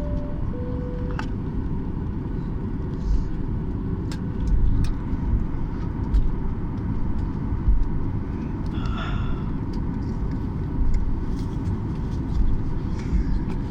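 Airliner cabin noise while taxiing after landing: a steady low rumble from the idling jet engines and the rolling airframe. At the very start a two-note cabin chime falls in pitch.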